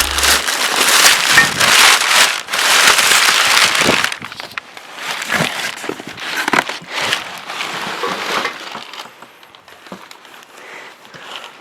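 Packing material crinkling and crunching as a box of parts is unpacked: loud and dense for about the first four seconds, then quieter, scattered rustles and knocks.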